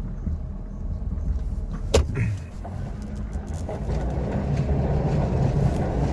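2016 Ford F-250's 6.7-litre Powerstroke V8 turbo-diesel running while plowing snow, with a sharp click about two seconds in. The engine grows louder from about four seconds in.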